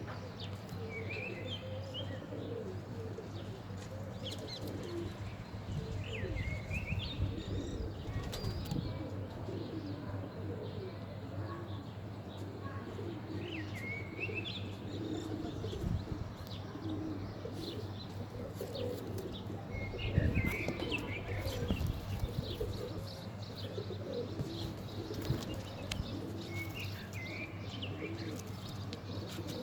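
Domestic pigeons cooing over and over, with wing flapping and a louder flurry of wings about twenty seconds in. Short high chirps come every few seconds.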